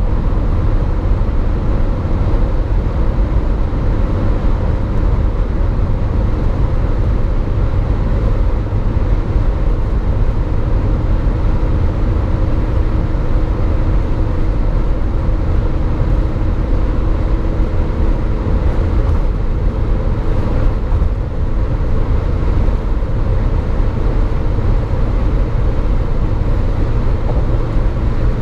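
Renault Trafic 1.9 dCi four-cylinder turbodiesel pulling hard at high speed on a top-speed run. The engine drone and road and wind rumble stay steady and loud, with no gear change.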